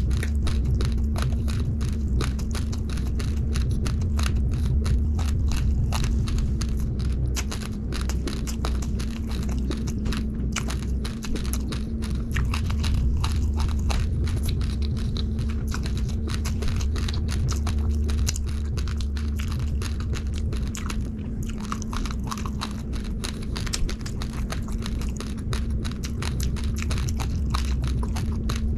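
Close-up crunching and chewing of uncooked rice grains: a dense, continuous run of small sharp crackles, over a steady low hum.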